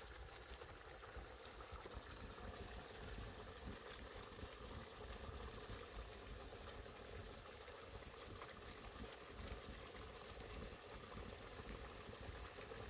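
Food cooking in a pot over the heat, a faint steady bubbling and sizzling with small scattered pops.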